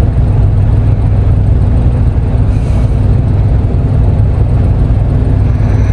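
Car engine idling, a steady low rumble heard from inside the car's cabin.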